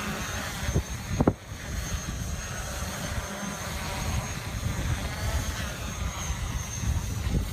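Strong wind buffeting the microphone with a heavy low rumble, over the thin, steady whine of a NovaX 350 quadcopter's motors and propellers holding a hover in gusty wind. A couple of sharp pops come about a second in.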